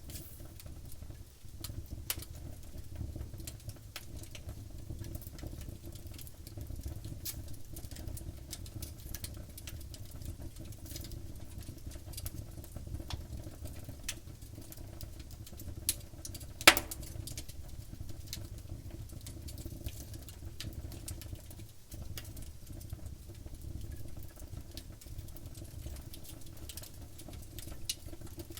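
Wood fire crackling, with scattered small pops and snaps over a low steady rumble. About two-thirds of the way through comes one sharp, loud pop, just after a smaller one.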